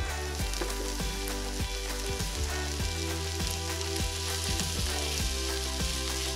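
Sliced red bell peppers and onions sizzling as they fry in oil in a pan, over background music.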